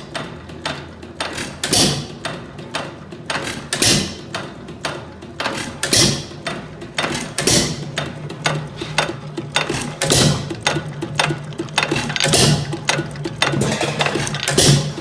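4 hp Acme hit-and-miss engine running, firing with a loud bang about every two seconds. Between the firings it coasts with steady mechanical clicking.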